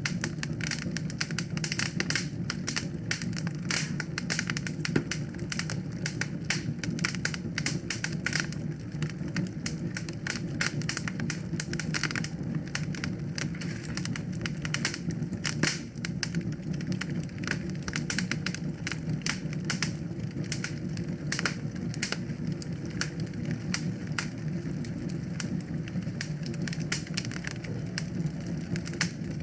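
Wood fire in a fireplace crackling and popping: a dense, irregular stream of sharp snaps over a steady low rumble of the flames.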